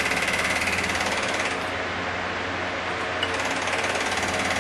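A steady, very fast mechanical rattle with a low hum underneath, unchanged throughout.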